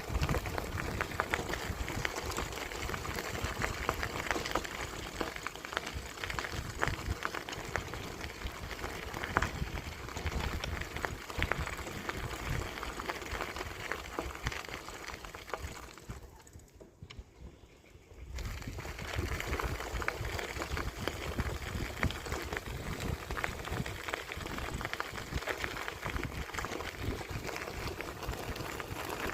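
Wind buffeting the microphone and the rumble of a bicycle rolling along a path, with many small clicks and rattles. It drops away for about two seconds a little past the middle, then comes back.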